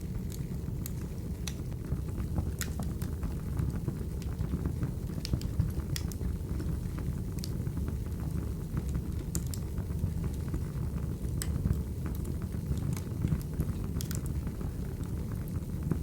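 Wood fire burning, a steady low rumble of flames with irregular sharp crackles and pops from the logs.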